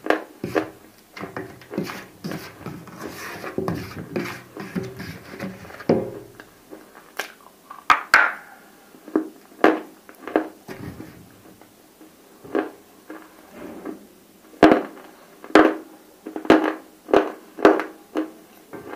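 Close-miked crunching and chewing of hard cubes coated in roasted nakumatt clay paste. A dense run of crunching fills the first six seconds, then separate sharp crunches come about once a second.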